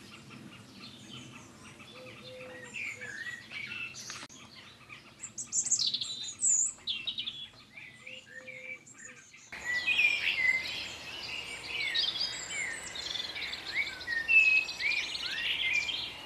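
Small birds chirping and singing, many short overlapping high calls and whistles; about nine and a half seconds in, the chorus becomes louder and denser.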